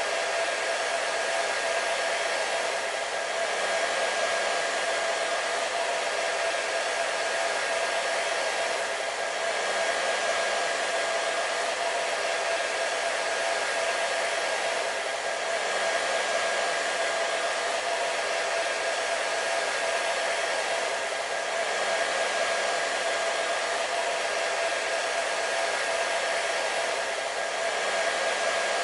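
Hair dryer running steadily: a constant rush of blown air with a steady whine from its motor and fan, swelling faintly about every six seconds.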